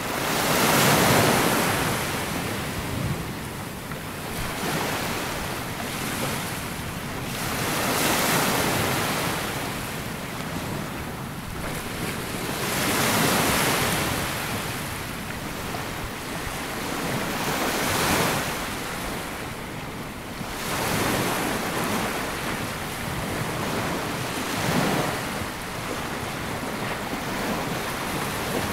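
Small sea waves breaking and washing up a sandy beach, a swell of surf about every five seconds between quieter backwash, with some wind on the microphone.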